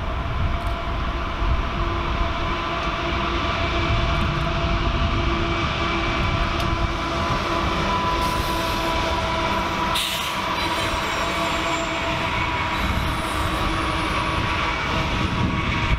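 A train rolling past, with a steady rumble of wheels on rail and a thin steady wheel squeal over it. There is one short clank about ten seconds in.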